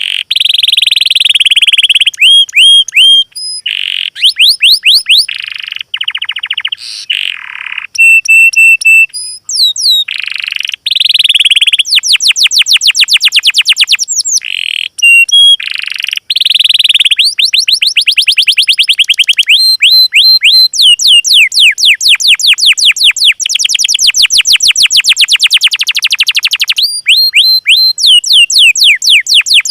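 Small songbird singing loud, fast, almost unbroken song: rapid trills of short sweeping notes, buzzy phrases and high whistles.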